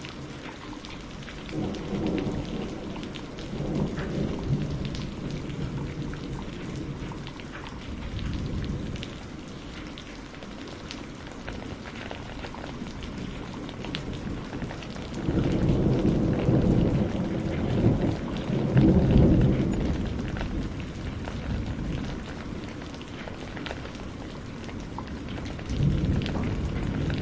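Steady rain with rolling thunder. There is a long rumble early on, a louder one peaking about two-thirds of the way through, and another beginning near the end.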